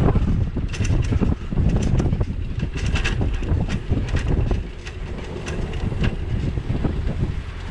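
Wind buffeting the microphone of a bicycle-mounted action camera while riding, a steady low rumble with scattered clicks and knocks throughout.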